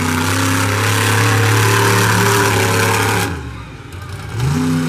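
Monster truck engine running hard at high throttle. It drops off suddenly a little over three seconds in, then revs back up with a rising pitch near the end.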